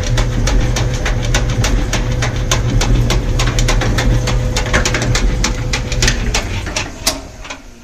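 Kenmore combination washer-dryer running, a loud low motor hum with a steady whine over it and rapid, irregular clicking and rattling, winding down about six seconds in. The owner suspects something is stuck in the machine.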